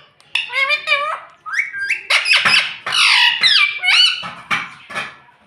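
Indian ringneck parrot squawking in a quick run of loud, high-pitched calls whose pitch slides up and down.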